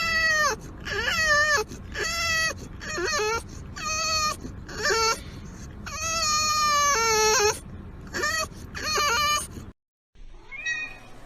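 A cat meowing loudly and repeatedly, about nine drawn-out meows with one longer call in the middle, each falling in pitch at its end. The meows stop abruptly about ten seconds in, and a fainter call follows.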